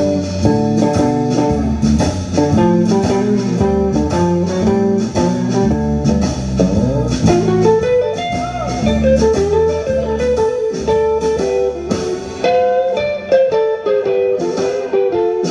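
Blues band playing live: an electric guitar lead line with bent notes over a walking bass guitar.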